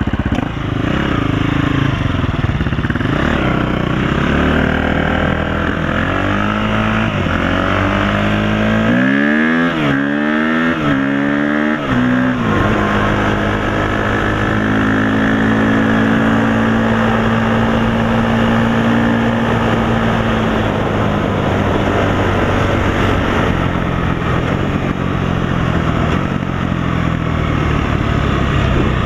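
Small off-road vehicle engine running under way. It revs up and down quickly about four times around ten seconds in, then holds a steady note.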